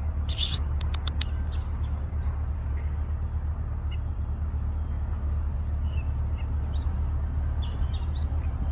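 Steady low outdoor rumble with faint, short bird chirps scattered through it. There is a brief hiss and a few sharp clicks about a second in.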